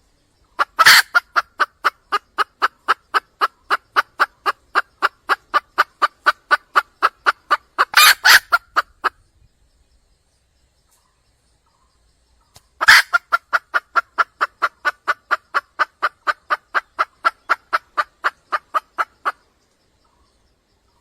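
Red junglefowl hen calling to draw a male: two long runs of quick repeated notes, about four a second, separated by a few seconds of silence. Each run opens with a louder, harsher note, and another comes near the end of the first run.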